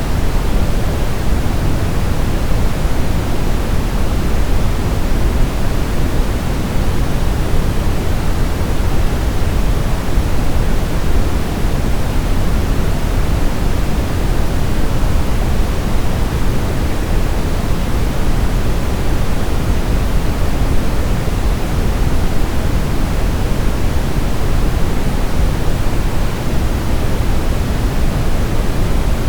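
Steady brown noise: an even, deep rushing hiss, strongest in the low end and tapering off toward the highs, unchanging throughout.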